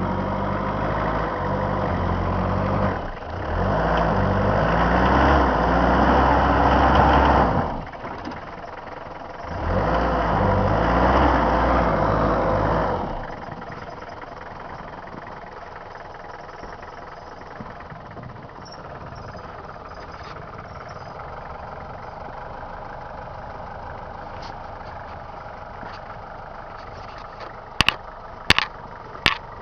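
1988 Toyota Hilux pickup engine revving hard under load, easing off briefly, then revving hard again for a few seconds. After that it settles to a quieter steady running. A few sharp clicks come near the end.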